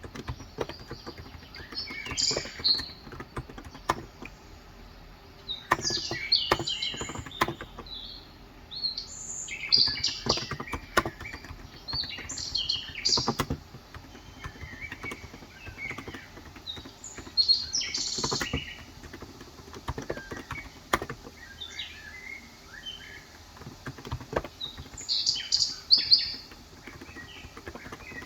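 Birds chirping and twittering in repeated short bursts throughout. Scattered keystrokes from a Cox Endeavor electro-capacitive (35 g) tenkeyless keyboard tap among them.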